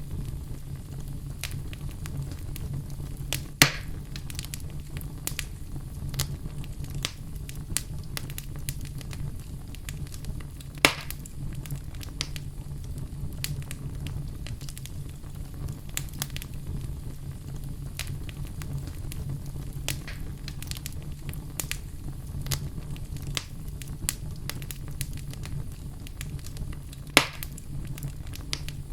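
Fire burning in a fireplace: a steady low rumble of flames under frequent small crackles, with three louder sharp pops.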